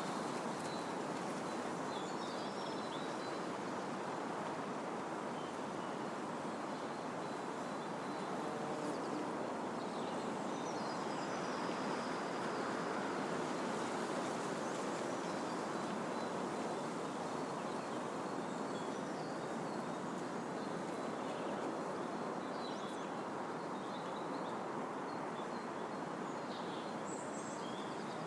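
Wind blowing through trees, a steady rushing that swells slightly around the middle, with faint bird chirps here and there.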